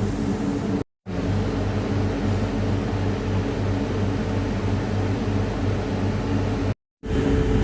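Steady cabin hum inside a Jakarta LRT light-rail car, with a low droning tone under a wash of running noise. It cuts out abruptly twice, about a second in and near the end.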